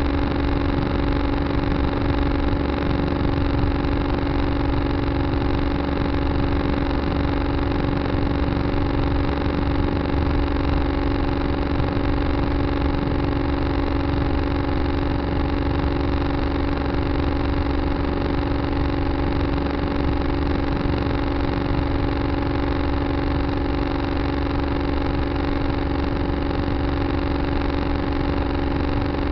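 Tractor engine running at a steady, unchanging speed, a constant drone with a low rumble underneath.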